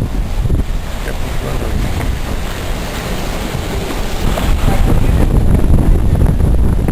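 Hurricane Katrina's wind gusting and buffeting the microphone in a steady, heavy rush of noise, growing stronger about four and a half seconds in.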